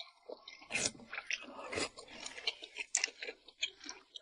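Close-miked eating of chili-oil mixed rice noodles: irregular wet chewing smacks and clicks, several a second.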